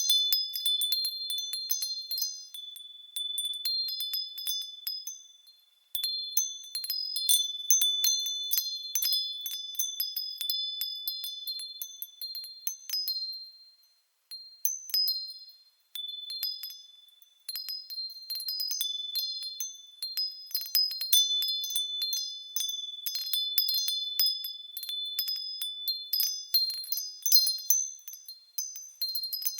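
Japanese fūrin wind chimes ringing in the breeze: clusters of high, clear tinkling strikes that ring on and die away, with brief lulls when the wind drops.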